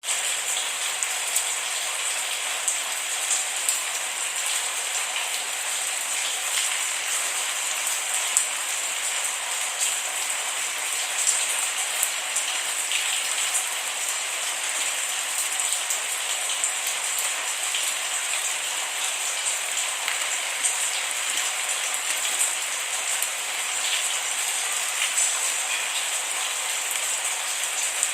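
Steady rain falling, a dense hiss with many small drop ticks and no thunder.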